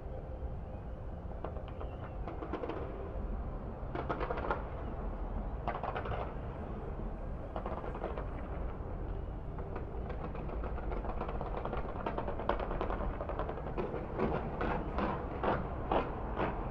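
Fireworks bursting: scattered bangs, then a quick run of crackling reports near the end, over a steady low rumble.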